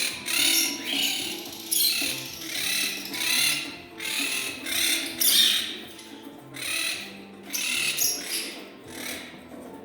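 Pet birds screeching loudly in a burst of harsh calls, about one or two a second with short gaps, over quieter background music.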